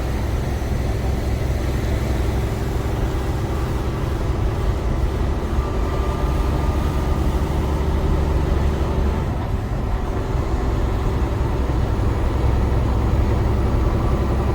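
Semi truck's diesel engine and road noise droning steadily, heard from inside the cab while driving.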